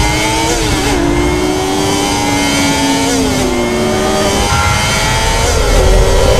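Motorcycle engine sound effect accelerating hard. Its pitch climbs and drops back at each gear change, several times over.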